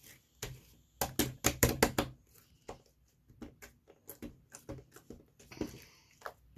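Slime being squeezed and poked by a baby's hands, giving irregular sticky clicks and pops, with a quick loud run of them between about one and two seconds in.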